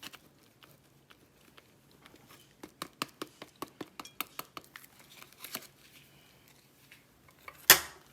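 Kitchen utensils clattering: a run of quick, even taps, about five a second for some three seconds, then one loud knock near the end.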